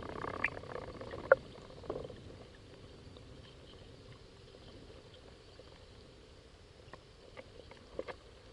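Water splashing and lapping against a kayak's hull: a few sharp slaps in the first two seconds, then faint lapping with a few small drips near the end.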